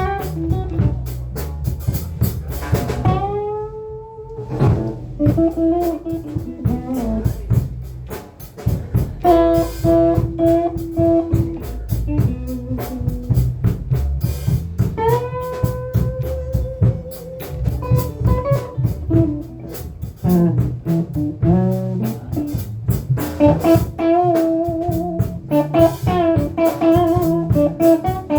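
Blues guitar solo during an instrumental break: single-note lead lines with bent, gliding notes over drums and a low rhythm section.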